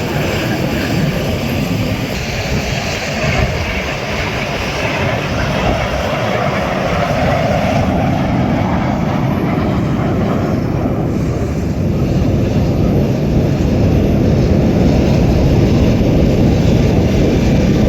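Aermacchi MB-339 jet trainers flying a display, their engines heard as a steady, low rushing roar that grows slightly louder toward the end.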